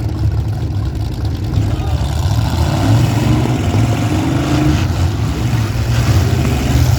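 Demolition derby cars' engines running and revving together, with an engine pitch rising for a couple of seconds in the middle.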